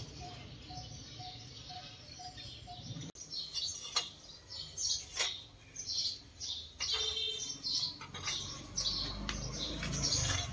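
Small birds chirping, many short high chirps coming irregularly, starting about three seconds in after a low steady hum.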